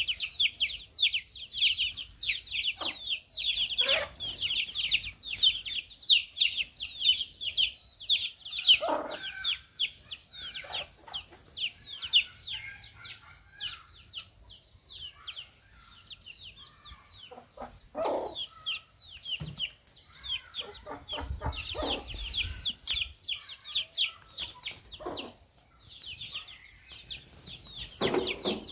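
Many small birds chirping continuously: rapid, overlapping high-pitched chirps that each drop in pitch, with now and then a lower call.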